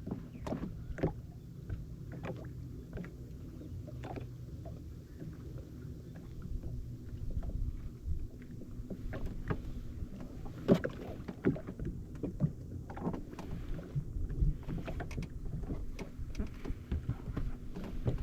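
Jet ski sitting on the water with a low steady engine hum, as small waves slap and knock irregularly against its hull.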